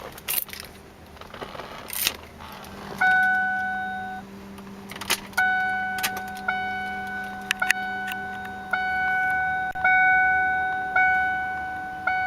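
Keys jangling and clicking in the ignition of a 1993 Lincoln Town Car. Then the dashboard warning chime sounds, first as one held tone and then repeating about once a second as the key sits in the on position.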